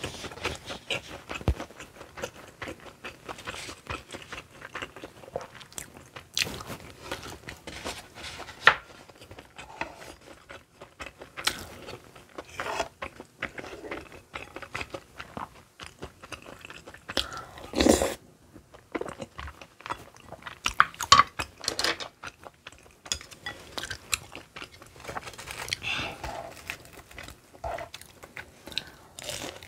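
Close-miked chewing and biting of spicy rosé tteokbokki and fried snacks: a steady run of short crackles and crunches, with one louder burst about two-thirds of the way through.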